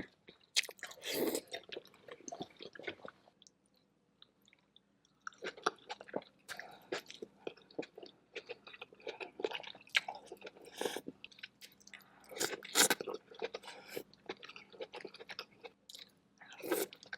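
Close-miked chewing of seafood boil: wet smacking and clicking mouth sounds, with a near-silent pause about three to five seconds in.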